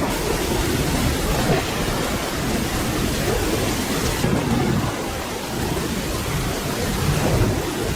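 Steady rain hiss with low rolling thunder rumbling underneath. The high part of the rain hiss thins a little about halfway through.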